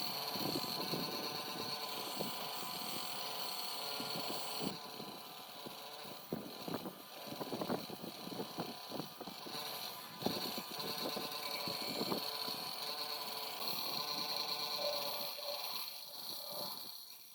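A motor-driven workshop tool running steadily, with many irregular clicks and knocks of the work against it.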